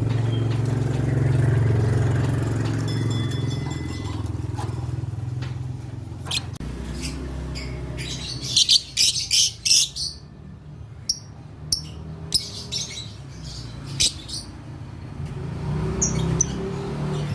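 Lovebirds giving a quick run of shrill chirps about halfway through, with scattered clicks around them. Under the first several seconds a passing vehicle's low rumble swells and fades.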